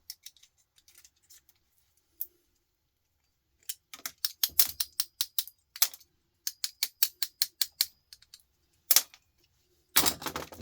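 Quick run of sharp clicks and taps, about four or five a second, from hand tools working on a computer power supply's components, followed by a single loud click and a louder clatter near the end.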